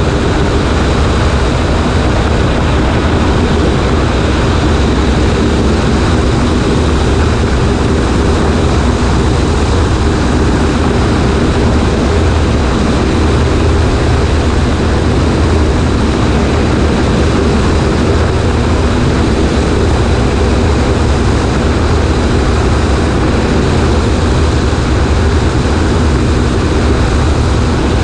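Cessna 140A's piston engine and propeller running steadily, a constant low drone mixed with heavy rushing air, heard from a camera on the right wing.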